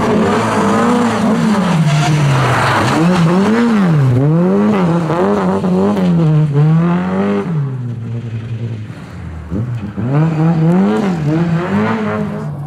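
Rally car engine revving hard and falling back again and again, about once a second, as the car accelerates and lifts between slalom turns. The engine sound drops away about seven seconds in and comes back loud near the end.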